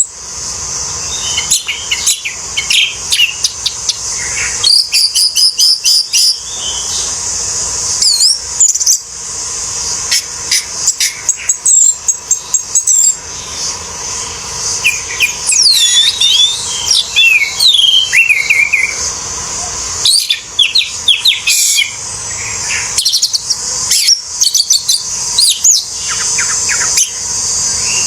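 Orange-headed thrush (anis merah) singing a fast, varied song of sweeping whistles and chirps in bursts with short pauses, over a steady high insect-like hiss.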